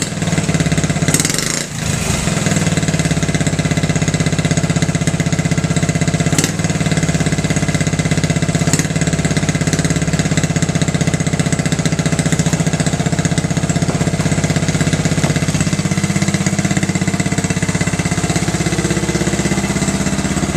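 1968 Honda Mini Trail's small single-cylinder four-stroke engine idling steadily.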